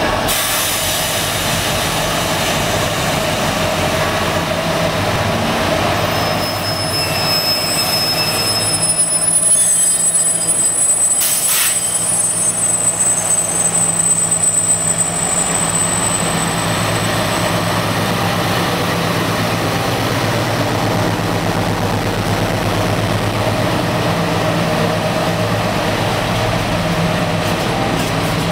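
Class 60 diesel-electric locomotive's engine running under load as it hauls a freight train away, with a steady low drone. High-pitched wheel squeals come in a few seconds in and fade out after the middle, as the train grows a little louder.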